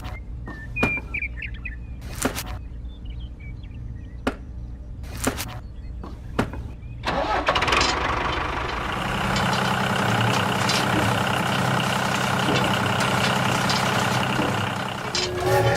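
A low steady hum with several sharp clicks, then about seven seconds in a motor vehicle engine starts and runs with a steady, noisy drone.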